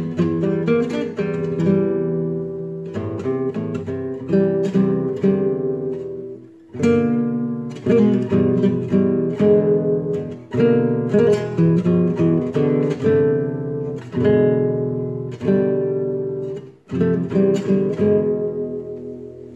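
Acoustic guitar played solo: improvised riffs of plucked notes and strummed chords, each ringing out, with brief pauses about six seconds in and again near the end.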